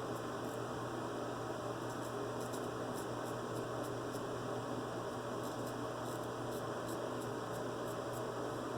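Steady electrical hum, with faint short scrapes of a straight razor blade drawn through lathered stubble in brief strokes.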